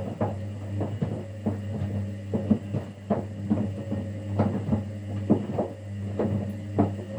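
Kunft washing machine running its wash cycle: a steady motor hum under irregular splashes and knocks as the laundry tumbles in the water in the drum.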